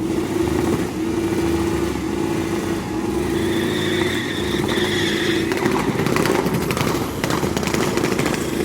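A vehicle engine held at steady high revs, then rough and crackling from about halfway through.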